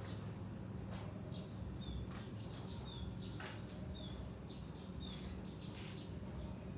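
A small bird chirping: short, high, falling chirps repeating about once a second. Under it is a steady low background noise, broken by a few sharp clicks.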